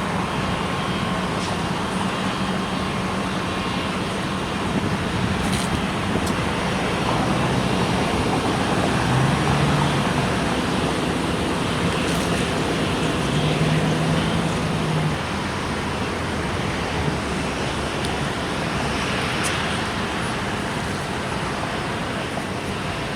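Jet airliner engines running, a steady broad rumble with a low hum that swells a little midway.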